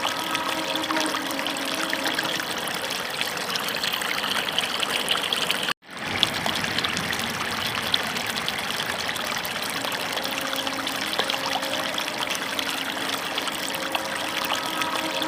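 Water running and splashing steadily, as when a toy digger is washed down under a stream of water. The sound drops out for a split second about six seconds in, then resumes.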